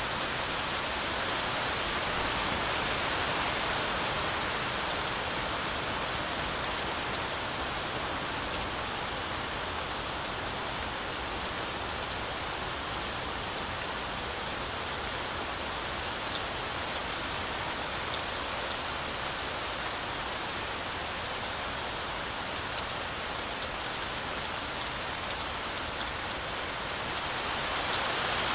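Heavy rain falling steadily, an even hiss with occasional single drops ticking through it; it swells slightly louder near the end.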